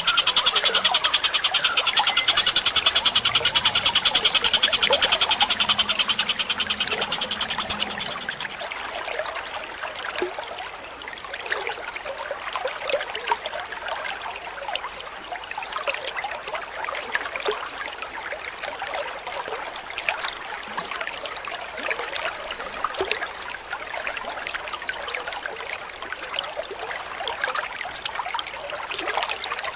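A bird-call training recording: a loud, very fast trill of rapid high notes for the first eight seconds or so, fading out, then trickling running water with scattered short bird chirps over it.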